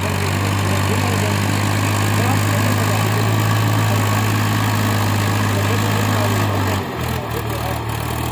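Tractor engine running steadily with a deep hum. About seven seconds in, its note drops and it runs a little quieter.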